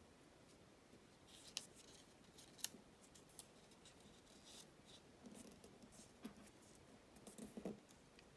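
Origami paper being handled and creased by hand: quiet crinkling with a few sharp crisp ticks, growing busier toward the end.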